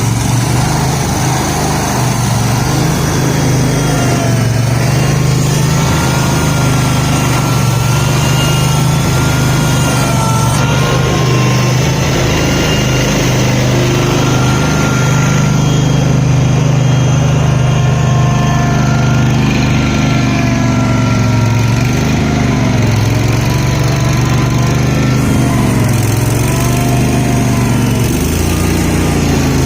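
Garden tractor engine running steadily under load during a tractor pull, with thin wavering high tones over it. The engine note shifts a little near the end.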